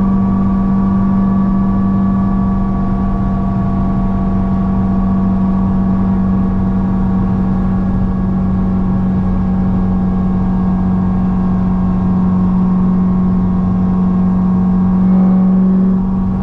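Supercharged V8 of a C6 Corvette ZR1 (Kong 2650 blower) cruising at steady highway speed: a steady engine drone with a supercharger whine above it. Near the end it swells briefly, then drops as the throttle eases.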